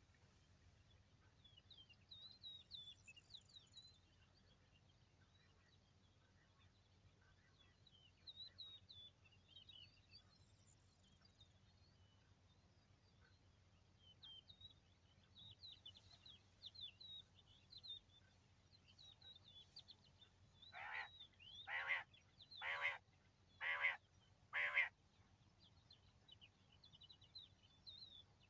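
Small birds twittering with short high chirps, and about three-quarters of the way through, five loud harsh calls about a second apart.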